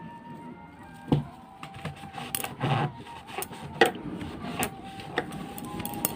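Irregular knocks, clicks and clinks of hard objects being handled, starting about a second in, over faint background music.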